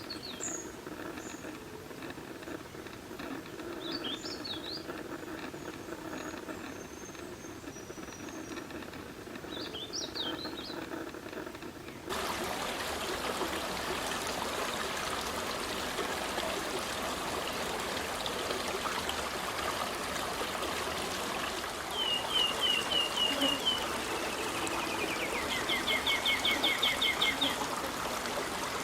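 Songbirds calling over running water: short separate calls for about 12 s, then a sudden switch to a louder, fuller water-and-forest background, and near the end a bird gives fast runs of rapidly repeated notes.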